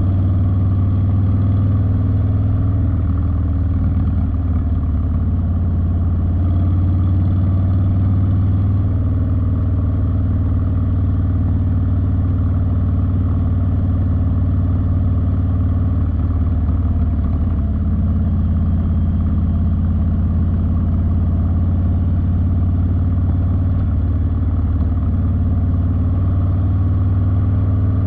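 Harley-Davidson Street Bob's V-twin engine running steadily through a TBR 2-into-1 exhaust, with its pitch shifting slightly a few times.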